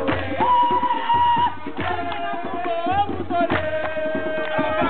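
Singing over fast hand drumming, with long held sung notes and a dense run of drum strokes underneath.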